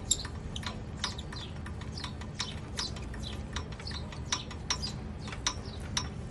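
Small birds chirping: quick, high, downward-sweeping chirps, several a second, with a steady low hum underneath.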